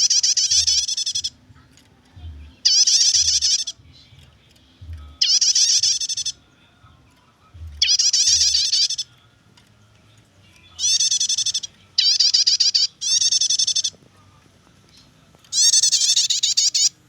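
Prinia (prenjak) giving its rapid chattering 'nyetater' call. Eight loud bursts of fast, scratchy high notes come at uneven gaps of a second or two, each lasting about a second.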